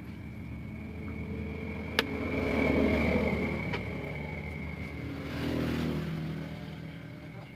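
A motorcycle engine running, swelling up twice as if revved, with a sharp click about two seconds in.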